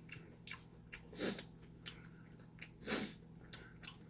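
A person eating close to the microphone: soft chewing and mouth clicks, with two louder short breathy puffs about a second and three seconds in.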